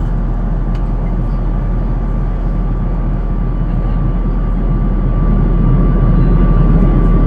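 Airbus A380 cabin noise in cruise flight, from the upper deck by a window over the Rolls-Royce Trent 900 engines: a steady rush of airflow and jet engine drone with a low rumble and a faint, steady high hum. It grows a little louder about five seconds in.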